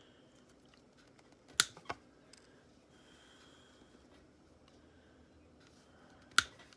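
Small hand-work sounds on a folding knife: two sharp clicks close together about a second and a half in, faint small scrapes, then another sharp click near the end.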